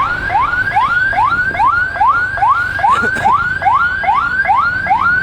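An electronic siren-style horn sounding a rapid series of identical rising whoops, about three a second, as on a motorcycle fitted with a novelty siren horn.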